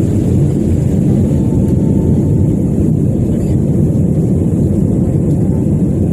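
Airbus A320 cabin noise heard from a passenger seat: a steady, loud low rumble of the jet engines and airflow, unchanging throughout.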